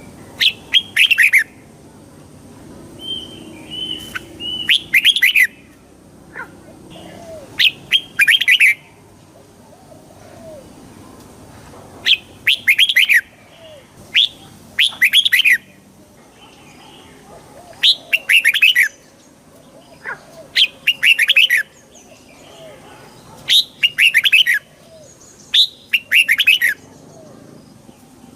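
Red-whiskered bulbul singing: short, bright phrases of a few quick notes, repeated every two to three seconds.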